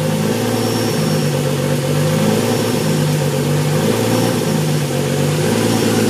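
Mercury Cyclone's V8 engine idling steadily at full operating temperature, heard at the rear bumper by the exhaust outlet.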